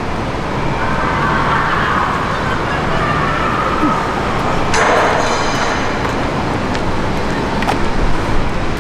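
Steady hum of road traffic, with a brief sharper sound about five seconds in.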